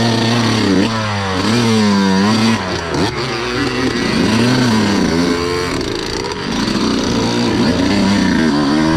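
Off-road vehicle engine revving up and down again and again, its pitch rising and falling with the throttle while the rider struggles to keep it going on the trail.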